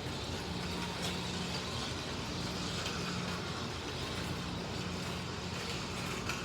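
Slot cars running laps on a track: a steady whir of small electric motors and gears with wheel and pickup noise, and a few brief clicks.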